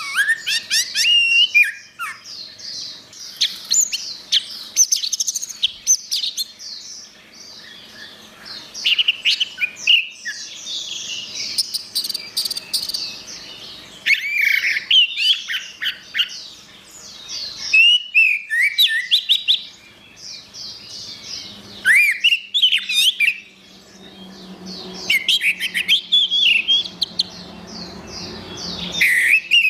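Orange-headed thrush singing: rapid, varied, high whistled phrases in bursts of one to four seconds, separated by short pauses.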